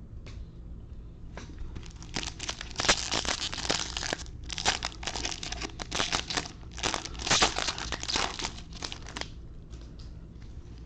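Baseball card pack wrapper crinkling and tearing as it is opened by hand. A dense run of crackling rustles starts about two seconds in and dies away about a second before the end.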